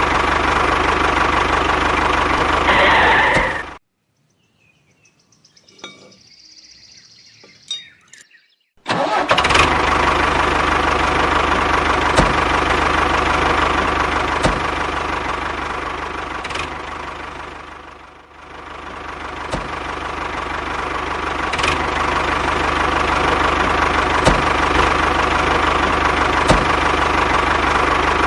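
Small DC electric motor of a DIY model tractor running with a steady hum. It cuts out about four seconds in, stays off for about five seconds, then starts again. Its level sags briefly and recovers later on, with faint clicks every couple of seconds.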